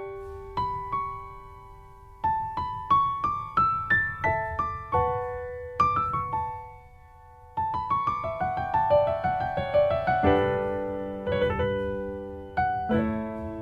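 Piano music: a slow melody of single struck notes that fade after each strike, with a short pause midway and chords held from about ten seconds in.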